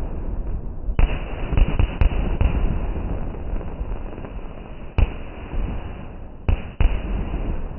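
Fireworks going off. A sharp bang comes about a second in and another at about five seconds, then two close together near the end, each followed by rumbling crackle.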